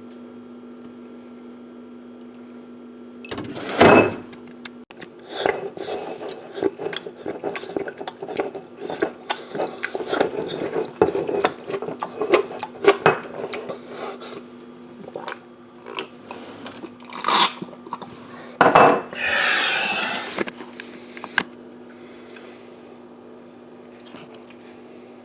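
Clattering and knocking of objects being handled, with two loud knocks about four seconds in and near nineteen seconds and a short rustling rush after the second, over a steady low hum.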